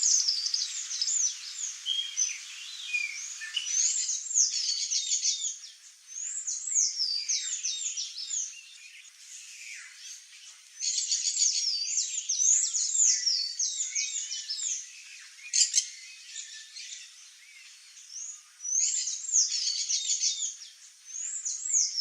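Birds chirping in repeated bouts of quick, high, falling notes, each bout lasting a second or two with short pauses between.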